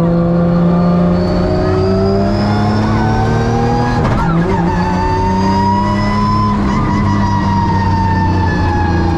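Drift car's engine heard from inside the cabin, its pitch slowly climbing under throttle. About four seconds in there is a gear change, then it climbs again before easing off gradually toward the end.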